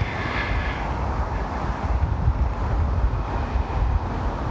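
Wind buffeting the microphone outdoors: a steady, low, fluttering rumble.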